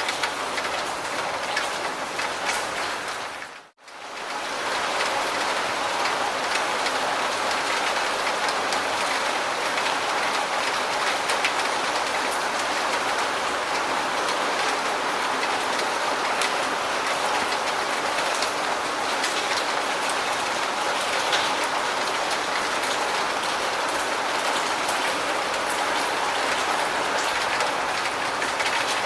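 Steady rain with many small drop ticks over an even hiss. About four seconds in it fades out to near silence for a moment, then swells back in and carries on.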